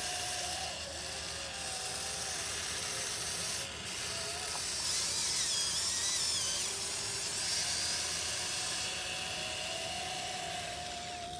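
Small electric motors of a 1580 RC excavator whining as it digs, the pitch rising and falling as the arm, bucket and swing are worked under load. A higher-pitched whine joins in for a couple of seconds about halfway through.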